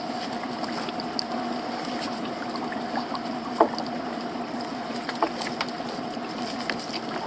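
Boat engine running steadily at idle, with a few short sharp clicks and knocks over it, about three and a half and five seconds in.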